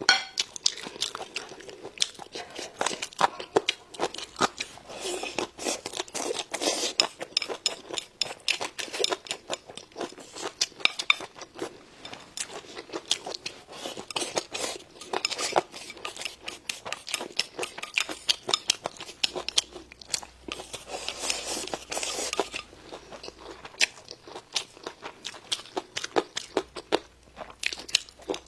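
A person chewing and biting crisp food close to the microphone: a dense, irregular run of crunches and wet clicks.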